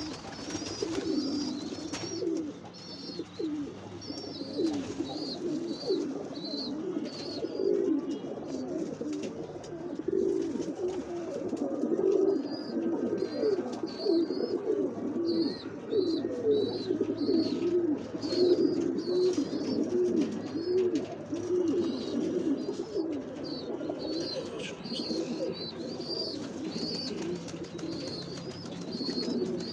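Many pigeons cooing at once in a dense, overlapping chorus, with short high chirps of a small bird repeated about once or twice a second over it.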